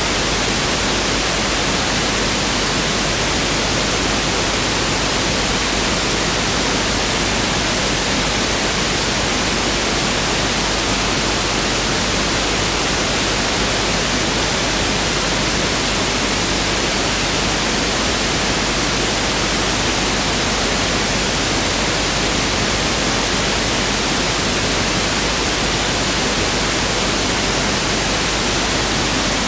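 Pink noise (1/f noise) test signal: a steady, even hiss with no change or events.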